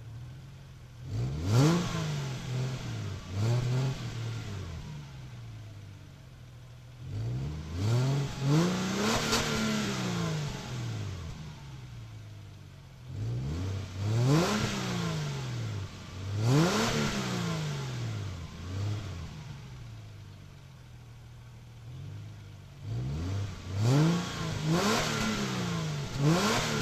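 Subaru Outback H6's 3.0-litre flat-six revved through its stock exhaust in quick blips that rise and fall back to idle, four groups of two or three revs with the engine idling in between.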